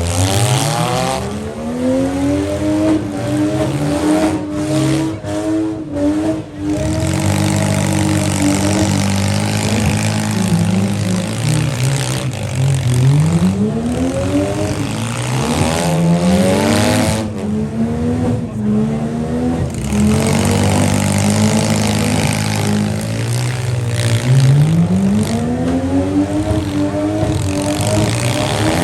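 Engines of stock vans, pickup trucks and SUVs in a demolition derby revving hard, over and over, pitch sweeping up and dropping back as drivers floor them, with several engines running at once.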